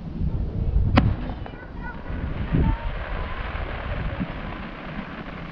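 Aerial fireworks going off in the distance: a sharp bang about a second in, a duller boom shortly after, and another bang at the end.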